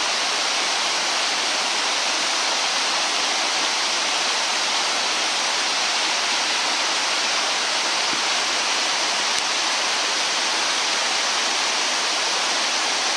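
Steady, even rushing noise with no crackles, knocks or changes, the kind of sound that flowing water makes.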